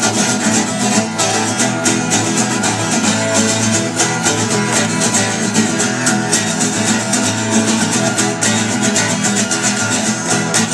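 Background music: a strummed acoustic guitar with a quick, steady strumming rhythm.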